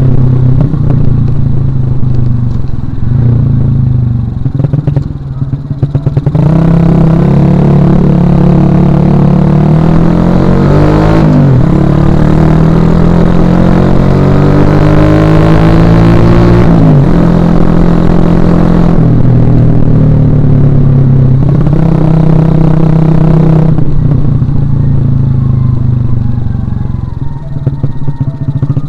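Suzuki Shogun Axelo R motorcycle's single-cylinder four-stroke engine under way, rising in pitch as it accelerates, with two gear changes about eleven and seventeen seconds in. It then holds a steady note and winds down as the throttle is eased near the end.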